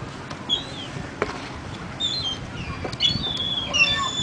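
A bird chirping and whistling in short, high, gliding notes, scattered at first and coming thicker in the second half.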